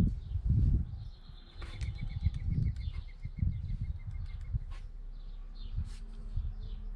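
Irregular low muffled bumps and rustling, with faint bird chirps behind them.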